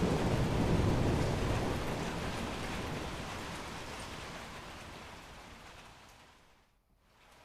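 Heavy rain with low thunder rumble, fading gradually away to near silence near the end before rising again.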